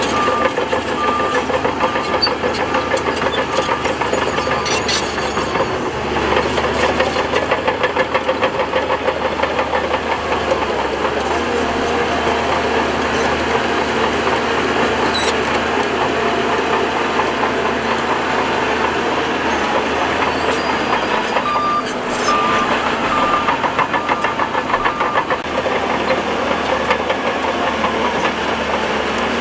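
Shantui DH17C2 bulldozer's diesel engine working steadily under load, swelling louder a few times. A reversing alarm beeps in a short run near the start and again about 22 seconds in.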